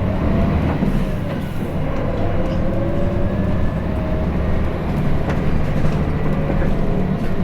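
Hino Blue Ribbon City city bus's diesel engine accelerating away from a stop, heard from inside the cabin. The engine note climbs, drops back as it shifts up and climbs again, then settles into a steadier run.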